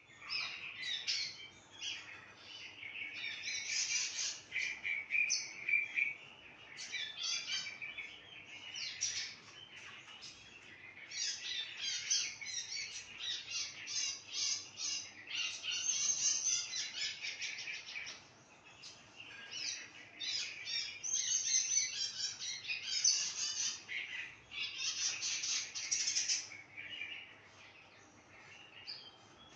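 Small rice-field birds chirping and twittering, many rapid calls and trills overlapping in bursts with short lulls between them.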